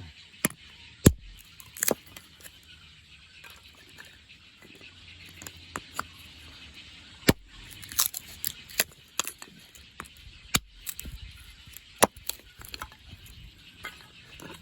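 A hatchet chopping and splitting small pieces of wood: a dozen or so sharp, irregularly spaced knocks and cracks.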